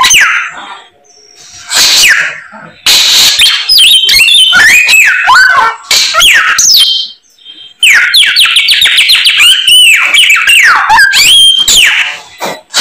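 Samyong songbird singing loudly: a varied run of clear whistled notes that swoop up and down, with fast trills and mimicked phrases of other birds' songs. The song breaks off briefly about a second in and again about halfway.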